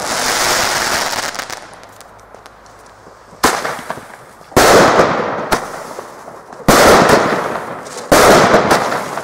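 Fireworks going off: four loud, sharp bangs about one to two seconds apart, each dying away slowly in a long echo. The first bang comes after a quieter stretch of a few seconds, as the echo of an earlier bang fades.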